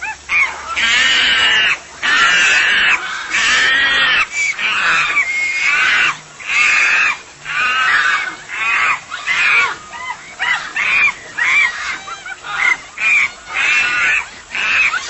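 A string of loud, high-pitched squeals, one after another about once a second, each bending in pitch.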